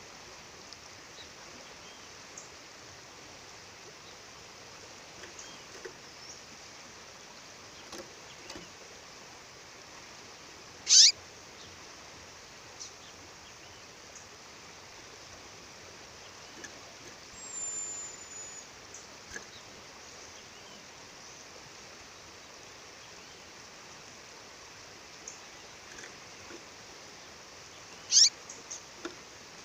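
Female songbird calling: two loud, short, downward-sweeping chirps, one about eleven seconds in and one near the end, with a thin high whistle between them and faint scattered chips, over the steady rush of a waterfall.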